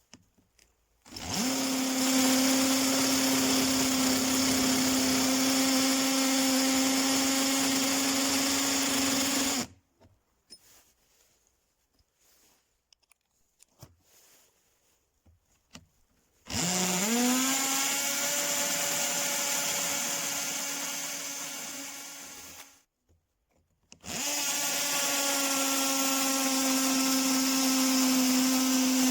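Cordless drill motor run three times in a row, each time spinning up quickly to a steady high whine. The second run winds down before it stops, and between runs there are faint handling clicks.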